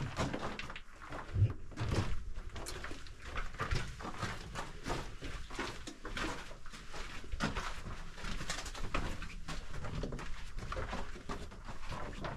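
Irregular scraping and crunching of footsteps and gear on rock and gravel inside a mine tunnel, many small scuffs and clicks in an uneven run, with the close echo of the enclosed passage.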